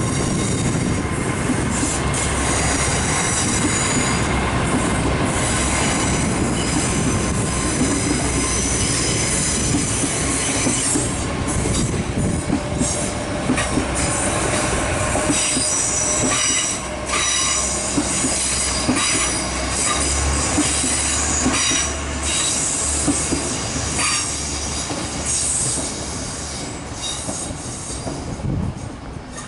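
GWR Hitachi Intercity Express Train running through the station, its wheels squealing on the rails in several steady high tones, with the clatter of wheels over the track. The sound fades toward the end as the train draws away.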